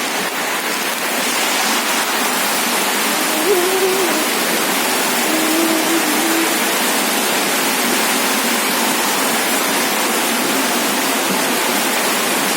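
Heavy rain falling steadily, an even, loud hiss of downpour.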